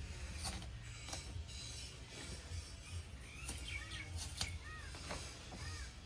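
Scattered sharp clicks and knocks, a few near the start and a cluster in the second half, over a low steady rumble. Short arched chirps repeat about once a second in the second half.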